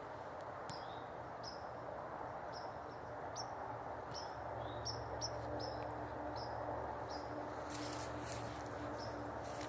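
A songbird calling repeatedly with short high chirps, about one a second, over steady outdoor background noise; a brief rustle comes about eight seconds in.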